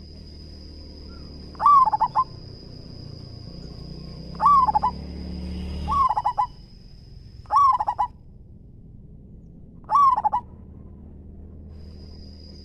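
Zebra dove (perkutut) cooing: five short, loud trilled coo phrases a couple of seconds apart, with a thin steady high tone behind them for much of the time.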